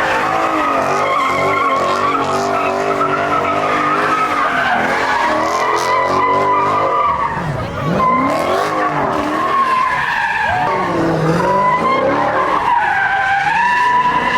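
Car tires squealing continuously as the car is swung around in a slide, over the engine revving up and down.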